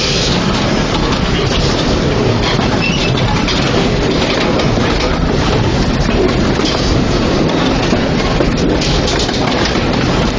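Narrow-gauge steam train hauled by a Quarry Hunslet tank engine, running along the track: a steady, loud rumble and clatter of wheels on the rails.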